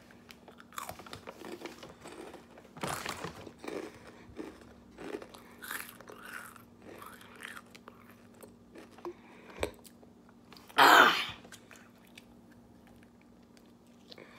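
A person chewing food, with scattered small mouth noises, and one short, loud noise about eleven seconds in. A faint steady hum runs underneath.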